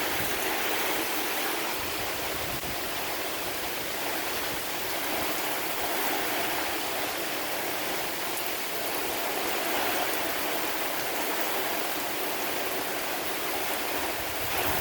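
Severe thunderstorm winds with rain: a steady rushing hiss with no distinct thunderclaps.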